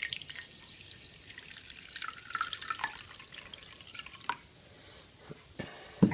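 Water being poured into a bowl of dry grits, splashing and trickling for about four seconds. A few sharp knocks follow near the end, the loudest just before it ends.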